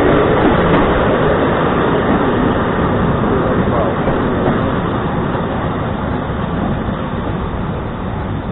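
Train running: a steady rush of wheel and rail noise that slowly dies away toward the end.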